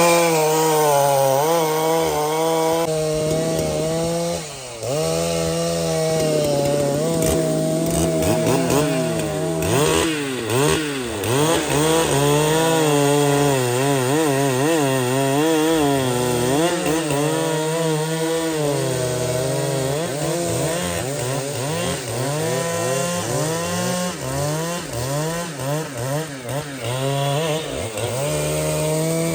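Large two-stroke professional chainsaw running hard through wood, its engine pitch repeatedly dropping under load and climbing again as it cuts. The engine sags briefly about four seconds in.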